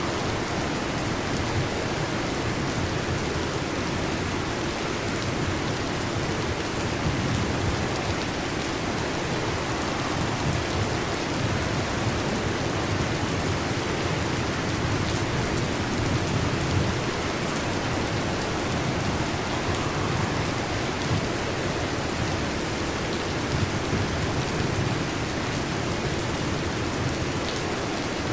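Heavy rain drumming steadily on a metal roof, a dense and even hiss with no breaks.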